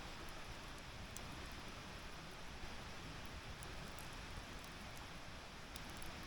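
Wood fire burning in a fire stand: a steady hiss with scattered small crackles.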